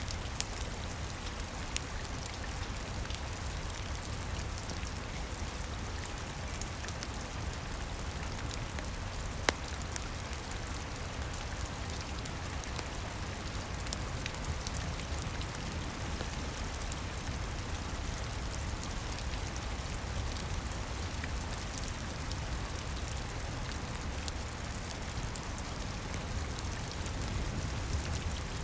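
Steady rain, with a low rumble underneath and scattered sharp ticks, one of them louder about nine and a half seconds in.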